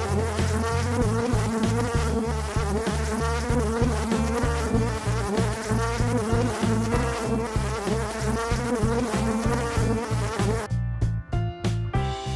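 Buzzing of a flying insect, a steady drone that wavers slightly in pitch and stops about eleven seconds in, over background music with a repeating bass beat.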